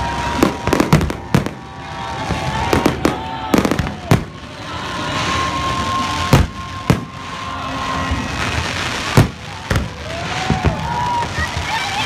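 Aerial fireworks shells bursting, about a dozen sharp bangs at uneven intervals over a continuous crackle and hiss.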